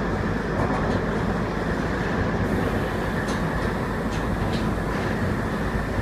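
Passenger train running, a steady rumble heard from inside the carriage, with a few faint ticks.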